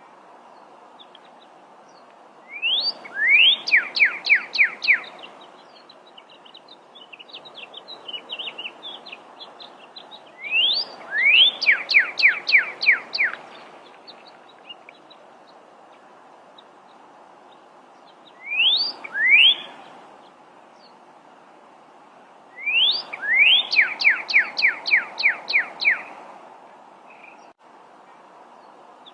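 Pyrrhuloxia (desert cardinal) singing four songs. Each opens with one or two rising slurred whistles, then runs into a fast string of short, clear down-slurred notes; the third song is brief. Softer scattered chips come between the first and second songs.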